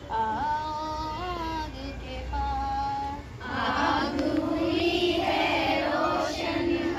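A girl singing a song alone, joined about halfway through by a group of girls' voices singing together in chorus.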